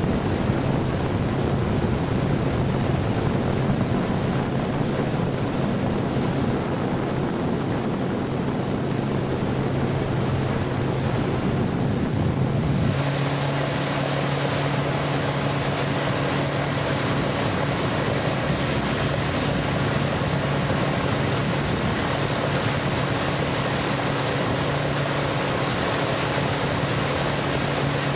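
Motorboat running under power of its 250 HP FNM HPEP250 common-rail turbo diesel inboard, a steady engine hum over rushing water and wind on the microphone. About halfway through the sound changes suddenly: the low rush falls away, a brighter hiss takes over and a second, higher steady hum joins in.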